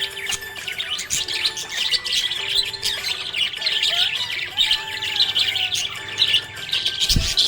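Budgerigars chirping and chattering continuously, many short high chirps and squawks overlapping. A brief low thump comes near the end.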